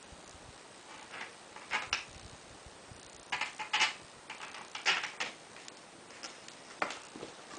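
Small metal screws and frame parts being handled during assembly, an irregular series of short clicks and clinks.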